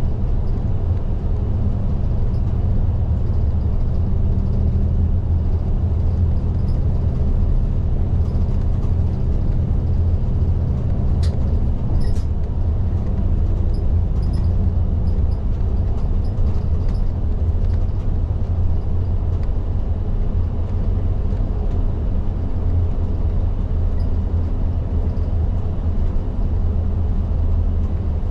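Cabin sound of a Nishitetsu Isuzu Erga (LDG-KV234Q3) diesel city bus under way: a steady low engine drone with road noise. A couple of short sharp clicks about eleven and twelve seconds in.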